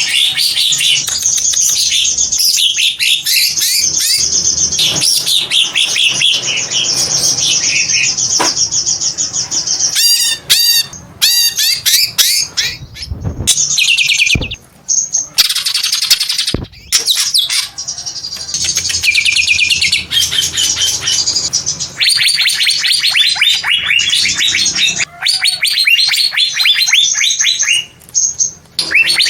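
Greater green leafbird (cucak ijo) singing a long, fast run of high chirps and trills, with a couple of brief breaks.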